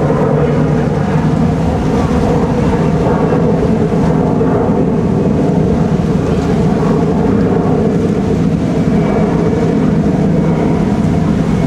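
Boat engine running steadily at the ramp, an even engine drone that holds the same pitch throughout.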